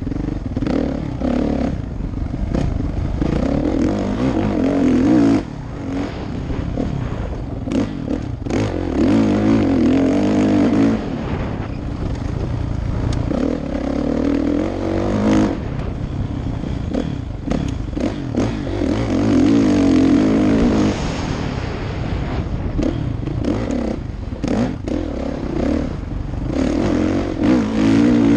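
2016 Kawasaki KX450F dirt bike's single-cylinder four-stroke engine being ridden, repeatedly opening up and backing off so the revs rise and fall every few seconds. Knocks and rattles from the bike and rough ground run through it.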